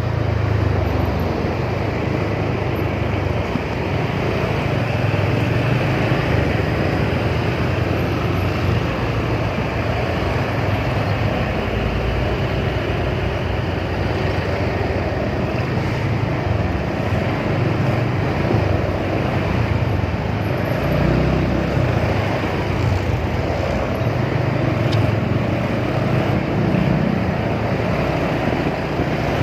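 Motorcycle engine running steadily while riding along, a continuous low rumble under a rushing noise.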